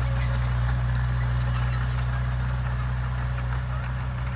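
Dump truck engine idling steadily, a low even hum.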